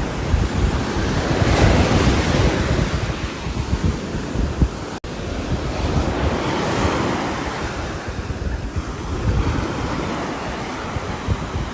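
Rain falling steadily on a roof: a dense hiss that swells and eases every few seconds. There is a momentary break in the sound about five seconds in.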